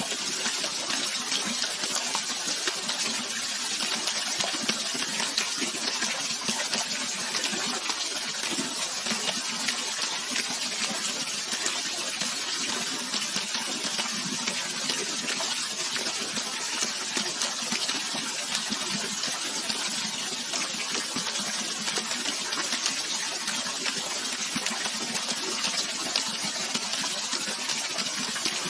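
Running natural water, a continuous steady rush with no change or break.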